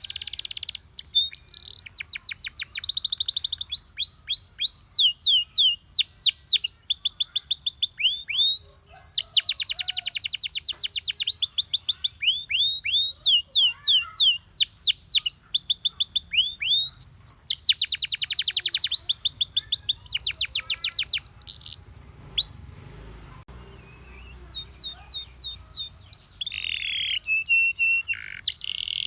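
Domestic canary singing: fast trills of rapidly repeated notes alternating with runs of quick downward-sweeping chirps. The song breaks off for a few seconds about three-quarters of the way through, then resumes with a few held, steadier notes.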